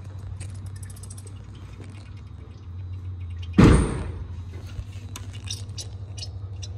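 Nissan RB25DET turbocharged straight-six idling steadily, running again after its broken cam angle sensor (CAS) was replaced. A single loud sudden burst breaks in about halfway through.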